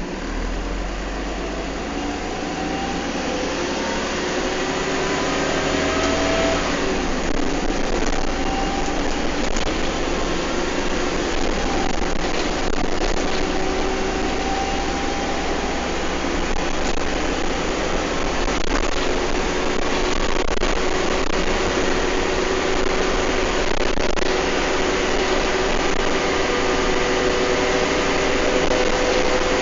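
Bus engine and transmission heard from inside the bus: whines that rise and then drop as it accelerates through the gears over the first several seconds, then a steady running whine at speed with body rattles and occasional knocks.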